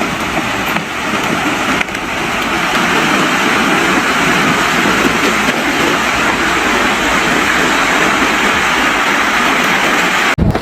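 A loud, steady rushing noise with no clear pitch, building over the first two seconds and cutting off abruptly near the end.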